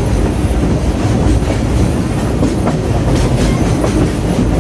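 Heard from aboard a moving train: the steady, loud rumble of the cars rolling along the track, with irregular clacks of the wheels over rail joints.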